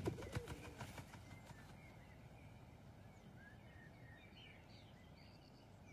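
Faint outdoor background with a few soft bird chirps scattered through it, and a few brief clicks in the first second.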